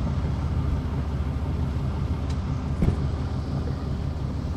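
A vehicle engine running steadily with a low, even hum, and one sharp click about three seconds in.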